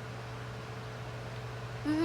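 Steady low hum with a faint steady tone above it, and a short voice sound near the end.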